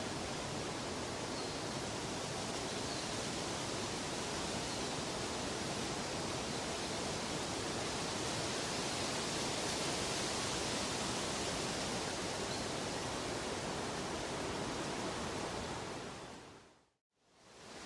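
Steady, even rushing noise, like a continuous white-noise or water sleep-sound bed. Near the end it fades out to silence and then starts fading back in, as at the loop point of a track.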